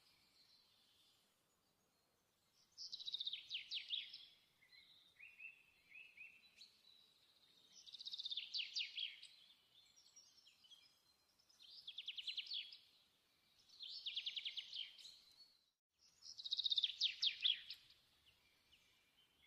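A songbird singing, about six short phrases of rapid high trills with brief pauses between them.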